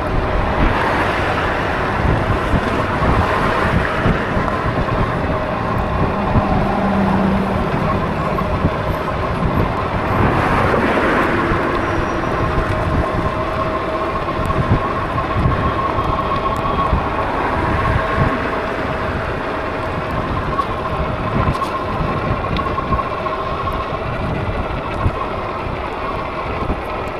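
Wind rushing over the microphone and steady road noise while riding, with a faint steady whine running underneath.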